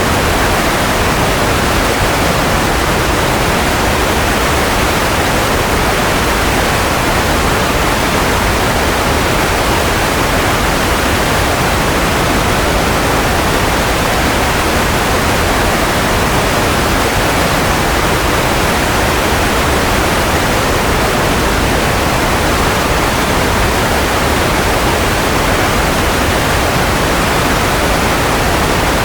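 Steady white noise: an even, unchanging hiss with no tone or rhythm in it.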